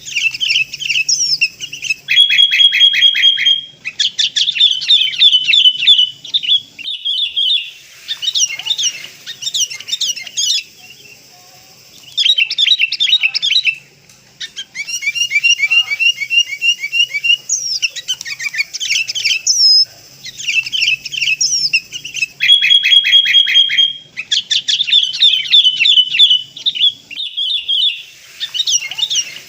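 Sooty-headed bulbuls chirping and calling in rapid bursts of sharp notes, repeated in groups of a second or two with short pauses between: a lure recording for drawing wild bulbuls.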